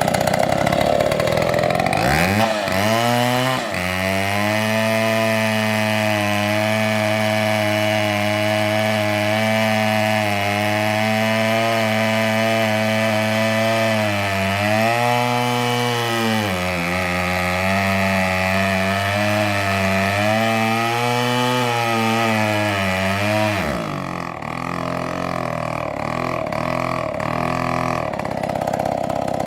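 Chainsaw revving to full throttle and cutting oak, its pitch dipping briefly about halfway through under load, then dropping back toward idle near the end.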